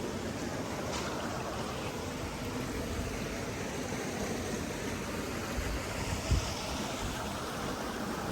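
Steady rushing noise, like running water, with a brief low thump about six seconds in.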